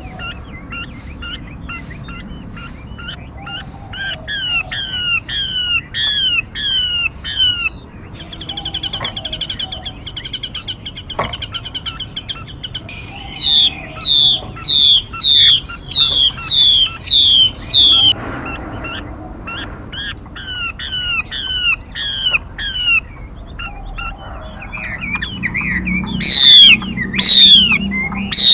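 A songbird calling, played as a lure call for trapping or training birds: rhythmic series of downslurred whistled notes, a fast steady trill about 8 seconds in, then bursts of loud, sharp downslurred notes about twice a second around the middle and again near the end.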